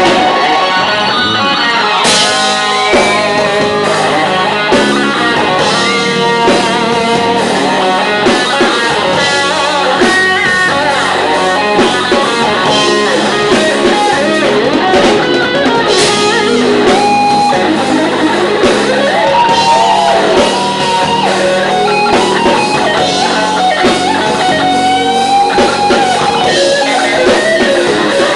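Live rock band playing loudly. An electric guitar leads with bent, wavering notes over drums and bass.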